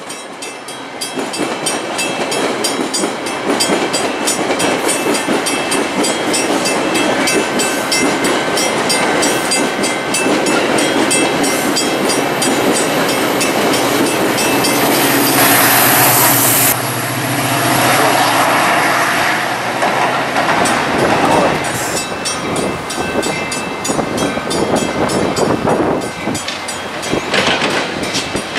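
Metra commuter train passing close below: steel wheels clattering rapidly over rail joints and a grade crossing as the bilevel cars go by. About halfway through, the diesel locomotive pushing at the rear goes past with a steady low engine drone and a brief loud rush.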